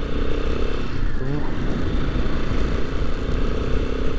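Royal Enfield Himalayan's single-cylinder engine running at road speed, a new engine being run in, over a steady low rumble. About a second in, the engine note dips and climbs again before settling back to a steady pitch.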